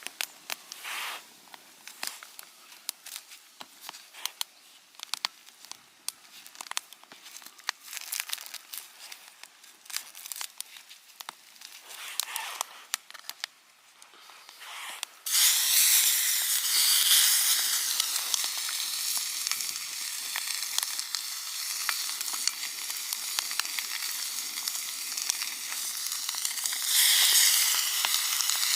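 Crinkling and clicking of packaging or food being handled for about the first fifteen seconds. Then meat hits a hot pan or grill and starts sizzling loudly and steadily, a sound that sets in suddenly about halfway through.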